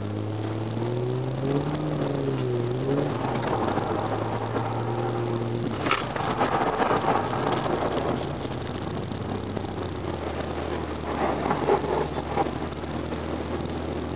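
Holden VY Commodore S's V6 engine heard from inside the cabin, revving up and down over the first few seconds, then running steadily at lower revs under tyre and road noise. A sharp click comes about six seconds in.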